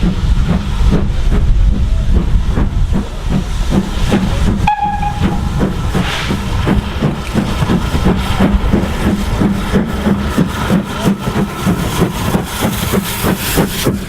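Bulleid steam locomotive working under steam, its exhaust beats coming evenly about three a second, with one short whistle blast about five seconds in.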